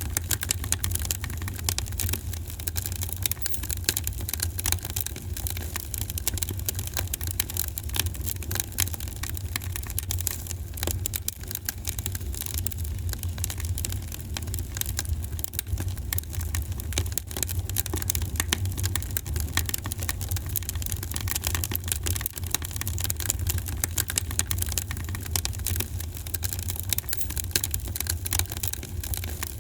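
Wood fire burning in a fireplace: dense, continuous crackling and popping over a steady low rumble.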